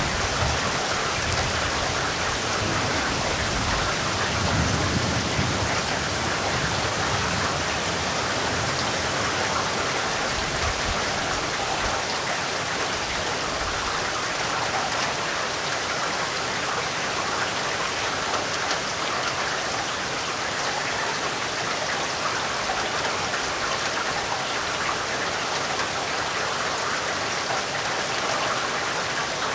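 Steady heavy rain falling and pattering on surfaces, an even hiss with no pauses. In the first several seconds a low rumble of thunder dies away.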